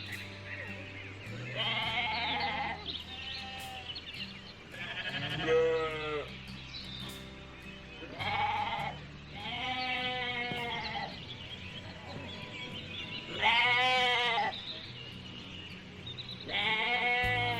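Sheep bleating about six times, each call lasting about a second with a quavering pitch, over background music with low sustained notes.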